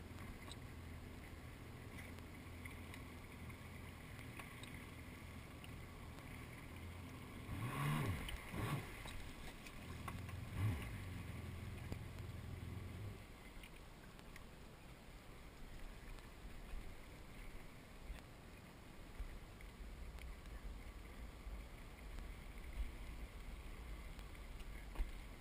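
Small watercraft engine running low and steady, louder briefly about eight seconds in and again a couple of seconds later, then falling away about halfway through, leaving a low rumble of wind and water.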